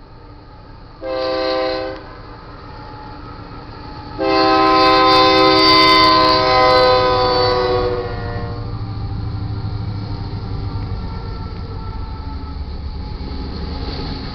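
Diesel locomotive air horn on the lead Union Pacific GE AC44CW, a short blast about a second in and then a long blast of about four seconds. The horn cuts off and is followed by the steady low rumble of the locomotives passing.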